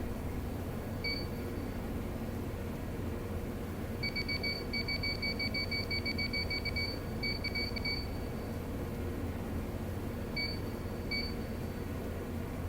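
Short electronic beeps in one fixed tone over the steady low hum of a stopped R160B subway car: one beep about a second in, a rapid run of about five beeps a second from about 4 to 8 seconds in, and a few single beeps near the end.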